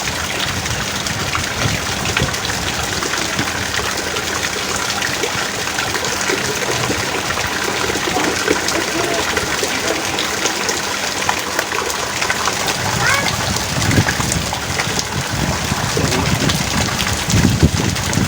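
Heavy rain pouring steadily as a dense hiss, with a few louder low surges near the end.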